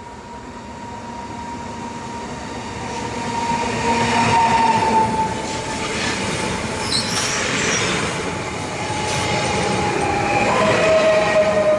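Koleje Śląskie electric multiple unit passing close along the platform, growing louder as it nears: wheels running on the rails under a high steady whine that drops in pitch as the train goes by.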